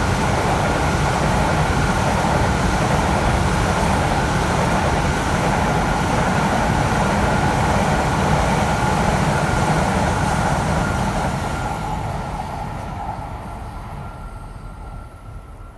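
Shinkansen trains passing at speed: a steady rushing rail noise with a thin high whine, fading away over the last few seconds as they recede.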